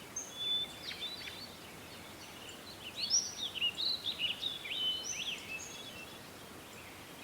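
Several small songbirds singing and chirping: a chorus of quick whistles and sweeping notes, busiest in the middle and thinning out towards the end, over a faint background hiss.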